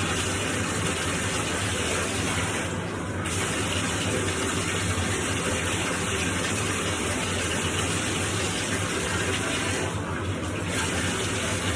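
Bath water running steadily from a tap or sprayer while a dog is washed, likely rinsing out shampoo. The rush briefly dulls twice, about 3 seconds in and near 10 seconds in.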